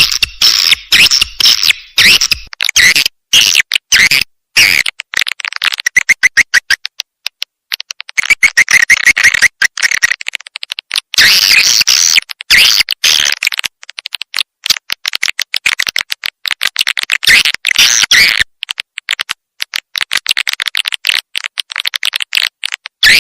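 Edible-nest swiftlets twittering in fast, clicking chirps and buzzy trills, played as a swiftlet lure call. Phrases start and stop abruptly.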